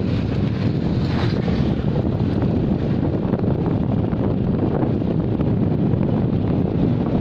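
Steady wind rumble buffeting the microphone, with a brief stronger gust about a second in.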